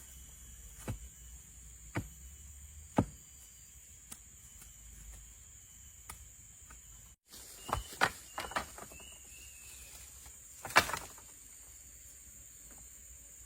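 Sharp knocks and clicks from handling things at camp: three single knocks about a second apart, then a cluster of clicks and knocks and one loud knock near the end, over a steady high insect drone.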